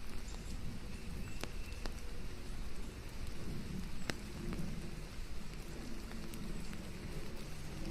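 Steady rain in a forest mixed with white noise: an even hiss with single drops ticking sharply now and then.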